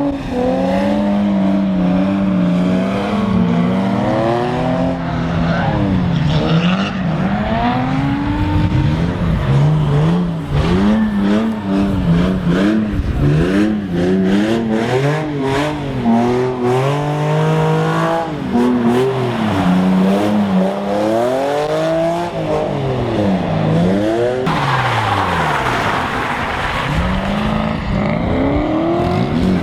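Drift cars' engines revving up and down again and again through slides, several engines overlapping at times. Near the end a steady hiss joins the engine sound.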